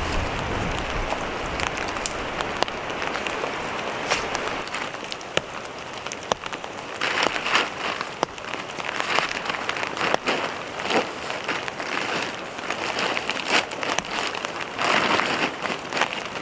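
Rain falling steadily, with many sharp drop hits on nearby surfaces. A low wind rumble fades out in the first second.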